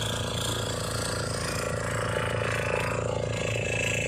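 Boat engine running steadily at an even pace, a low, rapidly pulsing drone.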